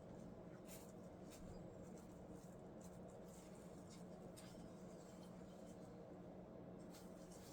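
Near silence: a steady low hum with faint scattered scratches and light clicks, like small parts being handled.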